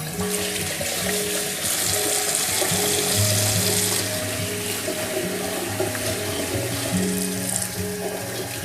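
Water running steadily, starting at the outset and heaviest in the first few seconds, under soft background music.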